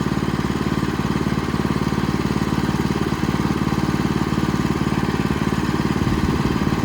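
Small petrol engine of a Bushlander HM122 portable sawmill running steadily at an even speed.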